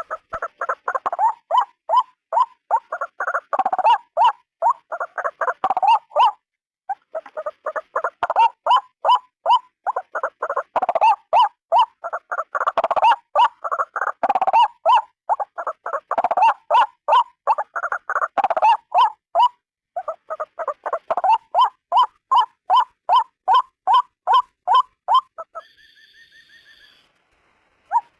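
White-breasted waterhen (ruak-ruak) calling: a long run of short, loud, repeated notes, about four a second, with a brief pause about six seconds in. Near the end the notes stop for about a second while a steady high tone sounds, then the calling resumes.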